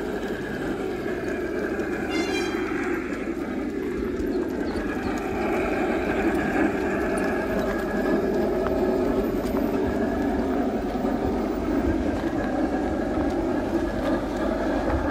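A railway train running along the track: a steady rumble that grows a little louder over the first few seconds.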